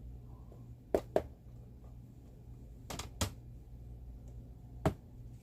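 Five sharp taps of a hand or finger on hard objects, some in pairs about a quarter second apart, over a steady low hum.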